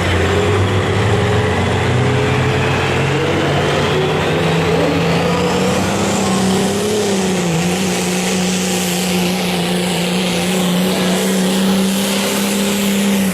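Modified semi truck's diesel engine running at full load in a truck pull, its pitch climbing slowly for about six seconds and then holding steady, with a high whine rising alongside it.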